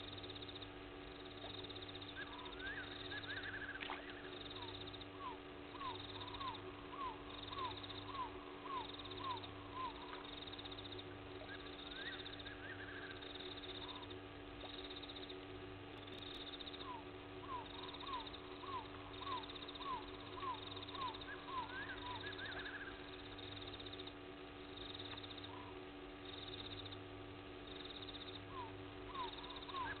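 A night bird calls in runs of about eight short, arching notes at roughly four a second. The runs come three times, each near a higher call, over a steady hum.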